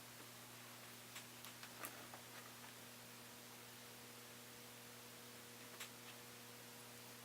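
Near silence: a steady faint electrical hum, with a few faint light clicks from small tools on laptop parts about a second in and again near six seconds.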